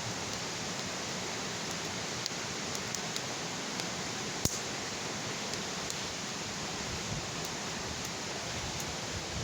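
Wood bonfire burning: a steady rushing hiss with scattered sharp crackles and pops, the loudest about halfway through.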